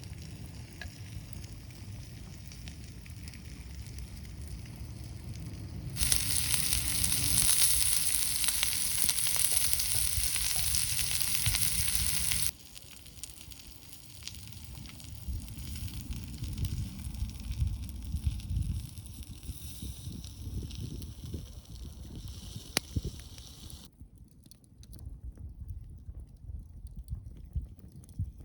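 Food sizzling over a campfire, with the fire crackling and low wind rumble on the microphone. The sound changes abruptly several times: it is loudest and hissiest from about six seconds in to about twelve, then drops back.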